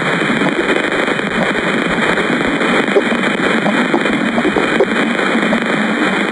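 Dense, steady crackling static, like a continuous hiss of tiny pops, with almost nothing above a sharp upper cutoff.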